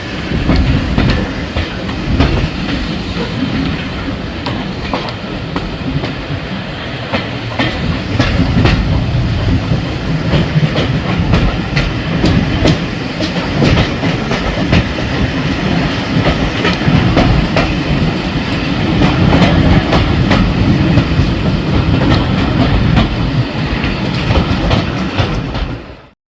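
Passenger train running along the line, its wheels clacking over rail joints with many sharp clicks through a steady rumble. The sound cuts off abruptly near the end.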